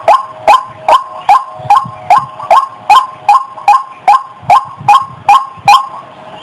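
Female rail (ruak-ruak) in breeding condition calling in a fast, even series of short, sharp notes, about two and a half a second, each hooking downward in pitch. The series breaks off near the end.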